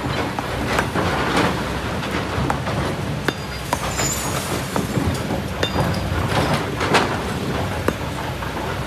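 Kobelco SK200 hydraulic excavator's diesel engine running steadily, with frequent sharp clacks and knocks of stones and rock while it works in sand and volcanic gravel.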